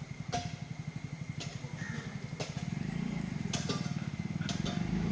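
A motor vehicle's engine running, a low rumble with a rapid even pulse that grows louder about halfway through, with a few light clicks over it.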